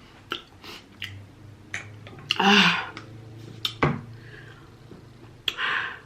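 A person blowing out hard twice, about two and a half seconds in and again near the end, between small wet mouth clicks and smacks: a mouth burning from a very hot sauce.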